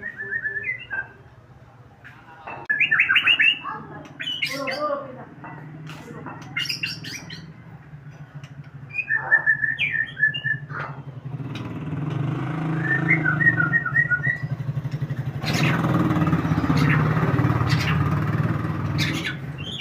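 A bird chirping and trilling in short, separate phrases over the steady hum of an engine running. The engine grows louder in the second half, from about twelve seconds in.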